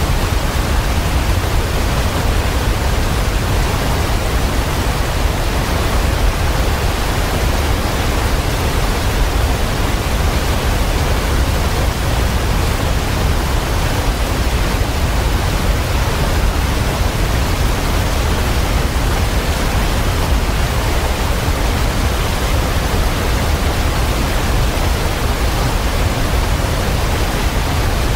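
Waterfall pouring steadily: an unbroken rush of water, strongest in the low end, with no birds or other sounds standing out.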